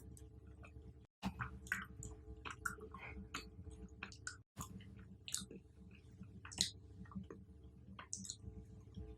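Close-miked chewing of chocolate-covered fruit: irregular wet crunches, clicks and smacks of the mouth. The sound cuts out to silence twice for a moment.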